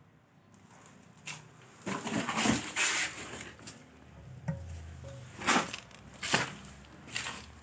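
A run of irregular scrapes and knocks, about half a dozen spread over several seconds, the loudest a rasping scrape around the middle.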